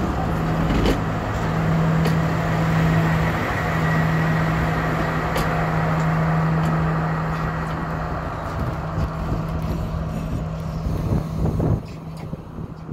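Passenger train carriages rolling slowly past close by: a steady running noise with a low hum and a few sharp clicks from the wheels and running gear. The sound falls away suddenly near the end.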